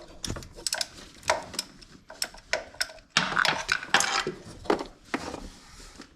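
Irregular metallic clicks and clinks of hand tools working on the water pump bolts, with a denser rattling stretch about three seconds in.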